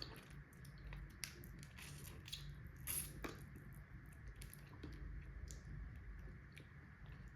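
Quiet eating sounds from a meal of rice and hilsa fish: soft, wet chewing and squishing with a few small clicks.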